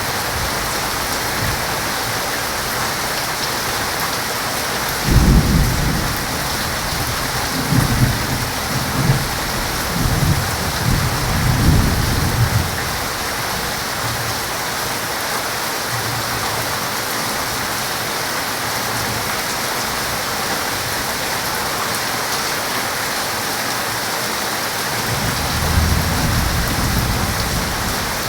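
Heavy rain falling steadily, with thunder rumbling twice: a long rolling rumble about five seconds in that swells several times and fades by about thirteen seconds, and another beginning near the end.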